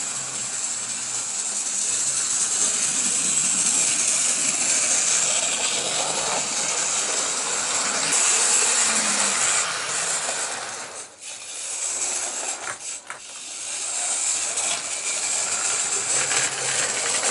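An OO gauge model steam locomotive running on its track: the steady whirring hiss of its small electric motor, gears and wheels on the rails, which cuts out briefly twice about two-thirds of the way through.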